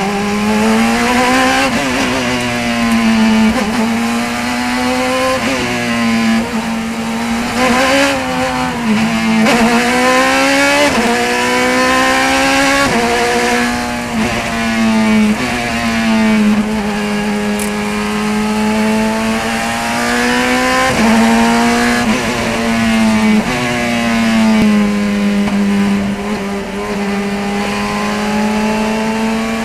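Race car engine at full effort, its pitch climbing repeatedly and dropping back at each shift or lift, about a dozen times.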